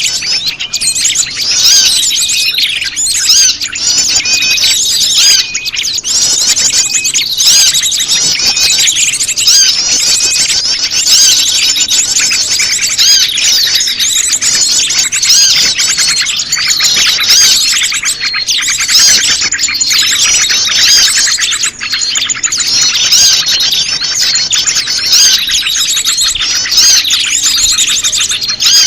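Bird-lure track: a dense chorus of many small birds chattering and trilling at once, rapid high chirps overlapping without pause, with prenjak lumut calls mixed in to draw that bird in.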